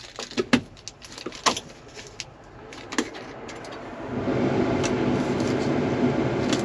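Sharp clicks and knocks of a key and cab controls being handled in a tractor cab. About four seconds in, a steady mechanical hum switches on as the tractor's power comes on.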